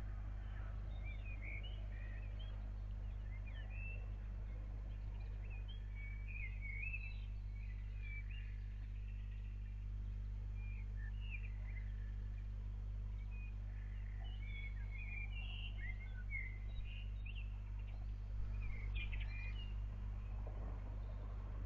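Small birds chirping on and off, many short high calls, over a steady low hum.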